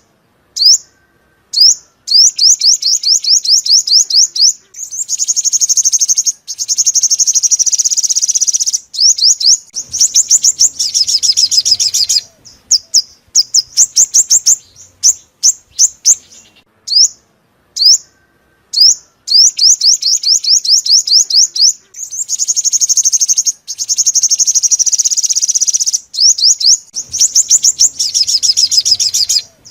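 Sunbird song, played as a trapping lure: rapid runs of high, thin, down-slurred notes alternating with denser trilled passages, in phrases separated by short pauses. The same sequence of phrases comes round again about halfway through, as a looped recording.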